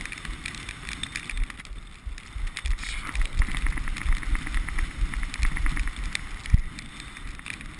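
Strong wind buffeting the microphone in a blizzard, a gusting low rumble over a steady hiss of blowing snow, with scattered crackles throughout.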